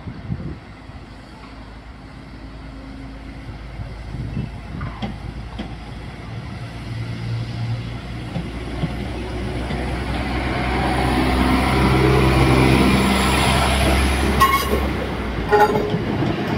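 Northern Ireland Railways diesel multiple unit moving off and crossing a level crossing. Its underfloor diesel engines run under a rising rumble of wheels on rail that grows steadily louder as the train comes close. Near the end come two sharp clacks as the wheels pass over the rail joints.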